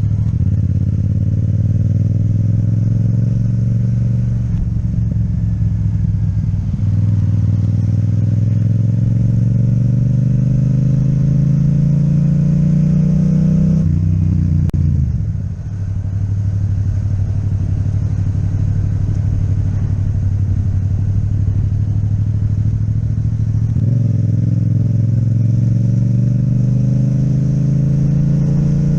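Yamaha MT-07 motorcycle engine with an Akrapovic exhaust, under way. Its note climbs slowly as the bike accelerates, falls away about fourteen seconds in, holds level, then jumps up in pitch a few seconds before the end.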